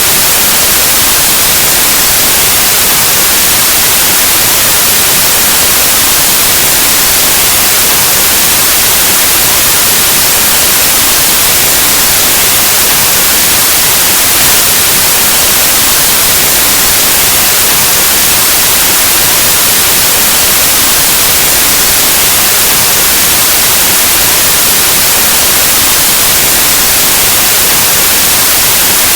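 Loud, steady white noise: an unbroken hiss with an even spread of energy across all frequencies, like the static of an untuned analog television or radio.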